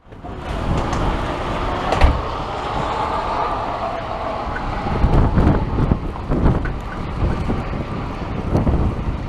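Strong, gusty wind in a snowstorm buffeting the microphone, with repeated low rumbles and a steady rushing hiss that eases after the first few seconds.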